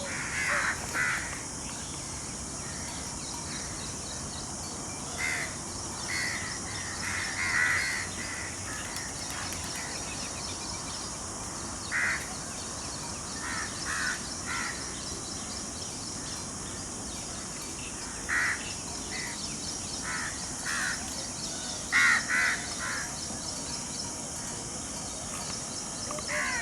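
Bird calls: short calls in groups of two or three, repeated every few seconds, over a steady high hiss.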